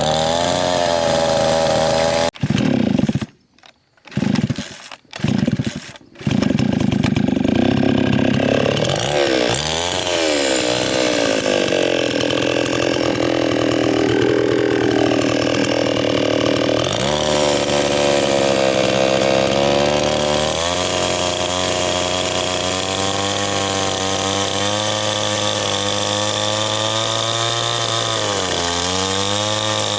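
Chainsaw running and cutting wood, its engine pitch dropping and climbing again as it goes into and out of the cut. The sound breaks off briefly a few times a few seconds in.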